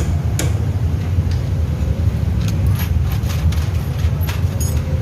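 A steady low engine-like rumble with scattered light metallic clicks and clinks.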